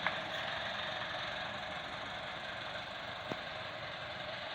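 Tractor's diesel engine running steadily, with one short click about three seconds in.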